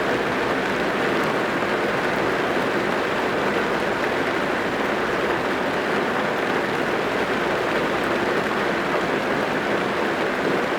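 Steady rain drumming on a car's roof and windows, heard from inside the car as an even, dense hiss.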